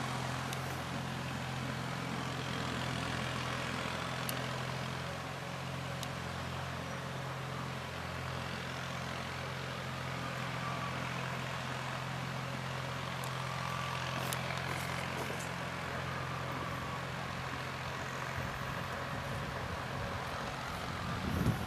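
An engine running steadily, a constant low hum under a rushing noise.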